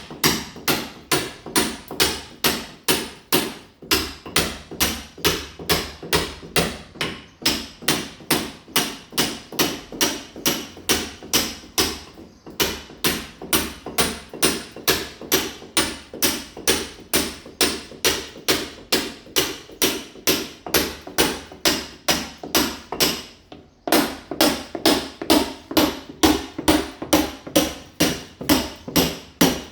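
A mason's hammer striking a wall again and again, about three blows a second, chipping the surface to roughen it for laying ceramic tile. The blows pause briefly twice.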